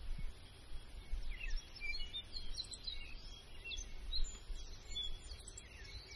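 Birds chirping: many short, quick chirps and twitters from about a second in, over a faint low rumble.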